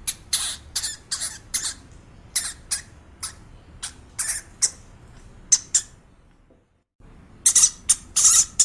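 A bird squawking in short, sharp, high-pitched calls, two or three a second; the sound drops out completely for about half a second two-thirds of the way in, then the squawks start again.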